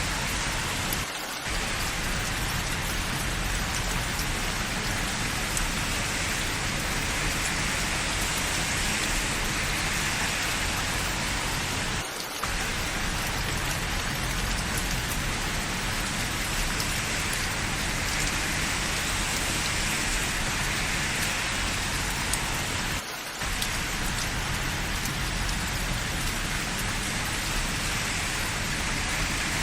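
Steady rainfall, an even hiss of rain falling on surfaces, briefly dipping three times about eleven seconds apart.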